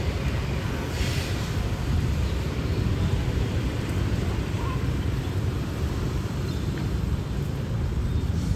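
Street ambience: a steady low rumble of traffic, with a brief hiss about a second in, like tyres passing on the wet road.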